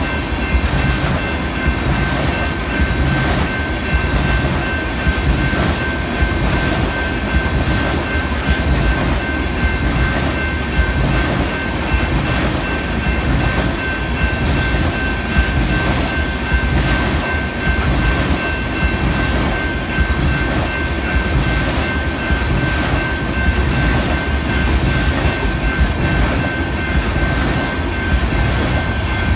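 Train rolling steadily past, its wheels clicking over the rail joints in a regular rhythm under a continuous rumble, with a thin steady whine above it.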